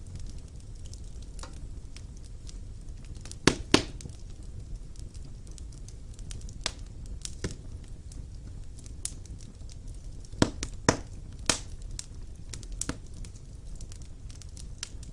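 Wood fire burning in a fireplace: a low steady rumble with irregular sharp crackles and pops, the loudest a close pair about three and a half seconds in and a cluster around ten to eleven seconds.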